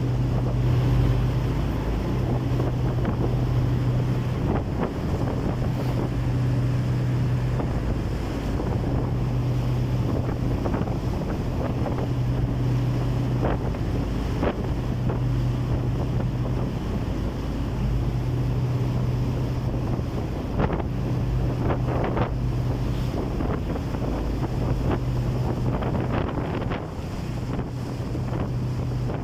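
A boat's engine running with a steady low hum that dips every couple of seconds, with wind buffeting the microphone and water splashing at sea.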